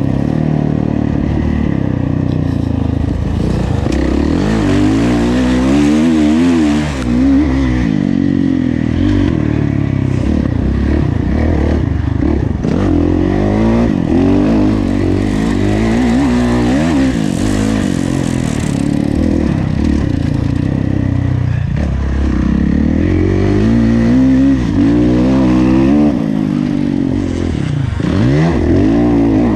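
Kawasaki KX450F motocross bike's four-stroke single-cylinder engine revving hard and easing off again and again, its pitch rising and falling every second or two.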